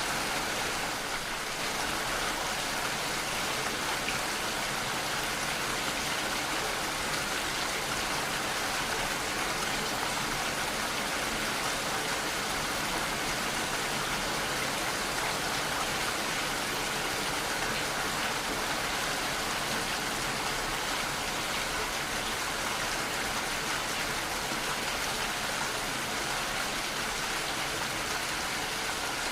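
Steady heavy rainfall, an even continuous hiss of rain.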